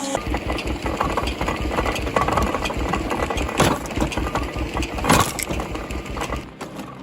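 Engine of a wood-processing machine running with a rapid, even low pulsing, with two sharp cracks about three and a half and five seconds in.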